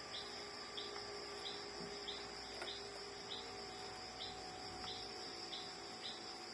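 Cricket chirping in an even rhythm, about one and a half chirps a second, over a steady high insect buzz. A few faint clicks are heard along with it.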